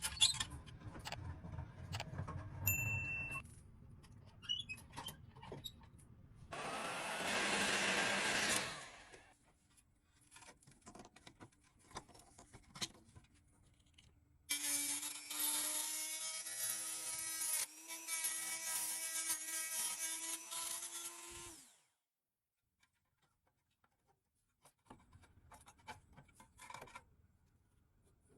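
Workshop tool sounds: clicks and handling noise, a hissing power tool running for about two seconds, then a power tool running at a steady pitch for about seven seconds before it stops abruptly. Faint clicks follow.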